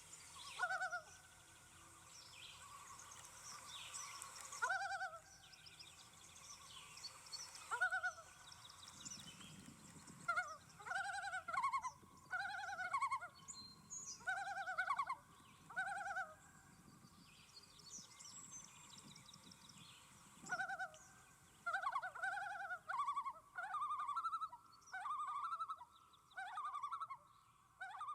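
Common loon calling: short, pure-toned call notes repeated, a few seconds apart at first, then in quicker runs of several notes.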